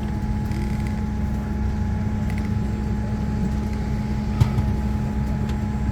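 Steady hum of a Boeing 787-9's cabin air system before pushback: a constant low drone with a thin steady whine above it, and a single short click about four and a half seconds in.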